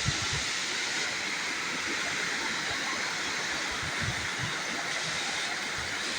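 Gegsky waterfall: falling water rushing in a steady, even roar.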